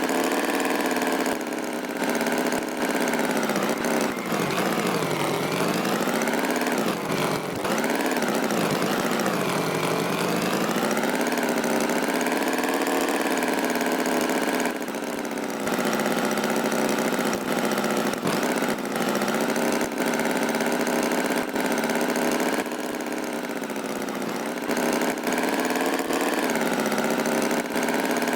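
Tractor engine running steadily, its pitch slowly sinking and rising again several times, with the deepest dips between about four and ten seconds in.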